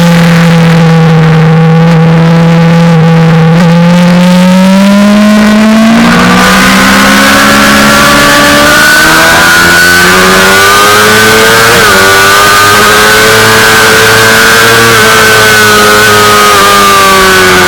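Suzuki GSX-R600 inline-four sportbike engine under hard riding, heard from on board. The engine note holds lower for the first few seconds, then climbs about six seconds in and rises and falls with the throttle and gear changes, under a loud rushing noise.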